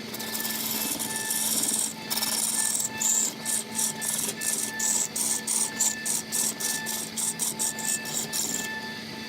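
Rasping or scraping strokes of a tool working wood: a couple of seconds of continuous rasping, then quick back-and-forth strokes, about three a second, that stop shortly before the end. A steady hum runs underneath.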